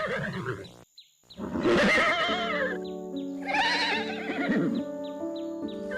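Horse whinnying: several loud neighs with a quavering, wavering pitch, one after another, over steady background music.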